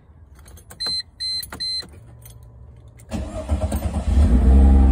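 Three short high beeps about a second in, then the 2004 Mercedes-Benz SLK 320's 3.2-litre V6 cranks and starts about three seconds in, running louder toward the end.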